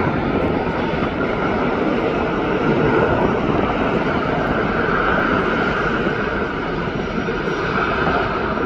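Jet airliner engines running loud and steady: a continuous rushing noise with a faint whine in it.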